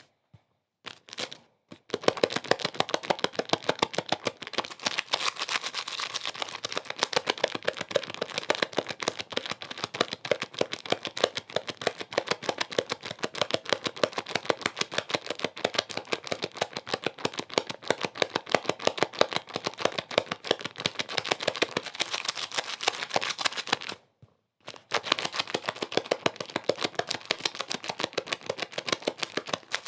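Dense, rapid crackling made of many small sharp clicks, used as a relaxation noise track. It drops out twice, briefly near the start and again for under a second later on.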